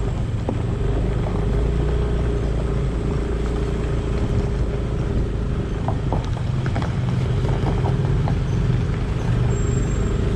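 Motor vehicle driving over a rough road: a steady engine and road rumble, with a few light knocks and rattles about six to eight seconds in.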